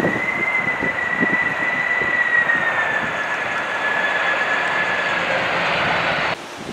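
Airliner engines whining as the plane passes, a steady rush with one high tone that slowly falls in pitch, then cuts off abruptly near the end.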